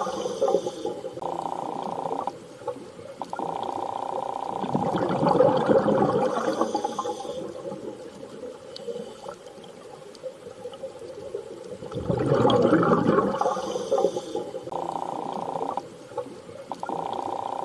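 Underwater ambience: slow swells of rushing water about every seven seconds, with steady droning tones that switch on and off between them.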